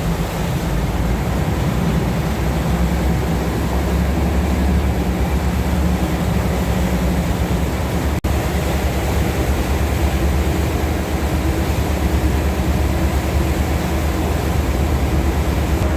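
Tour boat's engine droning steadily under a loud rushing of wind noise on the microphone, with a momentary dropout about eight seconds in.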